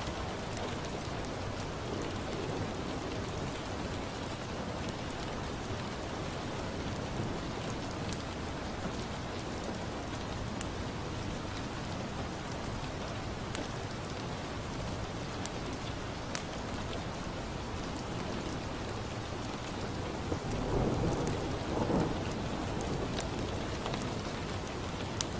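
Steady rain, with scattered faint ticks, and a low rumble of thunder swelling up near the end.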